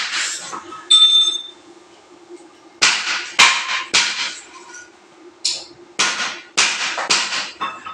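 Repeated hammer blows on metal, about nine strikes in runs of three or four with short pauses between; two of them ring with a clear metallic tone. A faint low steady hum runs underneath.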